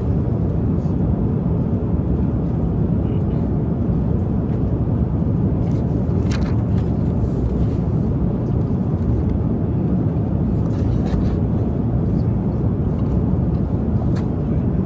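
Steady low rumble of an airliner cabin in cruise flight, even and unchanging, with a couple of faint clicks.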